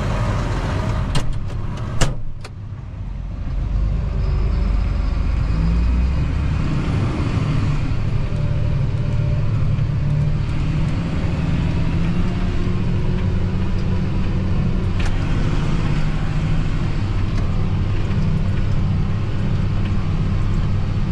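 John Deere 8230 tractor's diesel engine running steadily under load as it pulls a Kuhn Discover disc harrow, a low drone. A few sharp clicks come between one and two and a half seconds in, the sound dips briefly, then the engine drone builds back up about four seconds in and holds.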